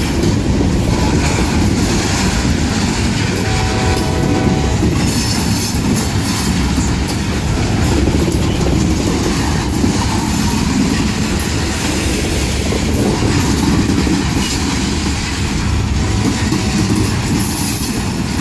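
Covered hopper cars of a freight train rolling past at close range: a loud, steady noise of steel wheels running on the rails.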